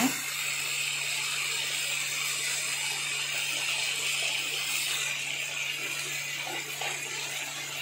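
Chicken and freshly added chopped onions sizzling gently in a kadai on the stove, a steady hiss, with a low steady hum underneath.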